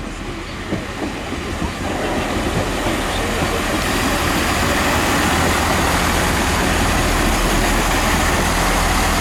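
Train running through the station: its noise rises sharply about two seconds in and then holds steady and loud.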